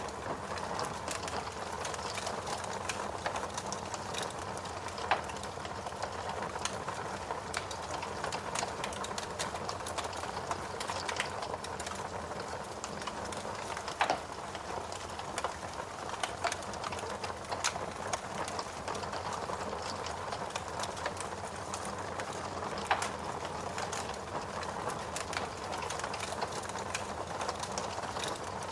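Steady rain with a wood fire crackling over it: frequent small pops and a few louder snaps.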